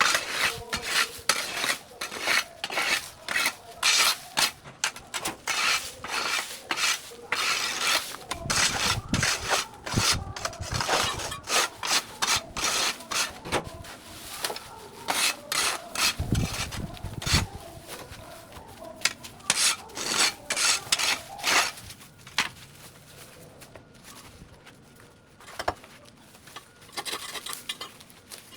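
Repeated scraping strokes, several a second, with a few low thuds along the way; the scraping thins out to occasional strokes for the last several seconds.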